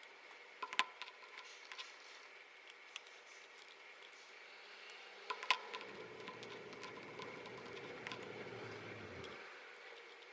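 Light clicks and taps of small parts and tools on a Canon PowerShot S110 compact camera being taken apart, with a soft rubbing or scraping noise for about three seconds in the second half.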